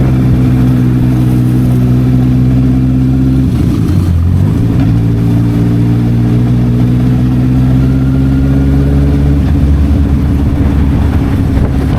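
Honda CB650R inline-four engine through an SC Project aftermarket exhaust, running loud and steady while riding. Its note breaks off briefly and changes about four seconds in before settling steady again.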